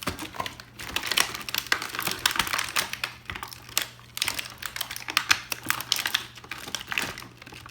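Small plastic toys being handled, with quick, irregular clicks and taps throughout.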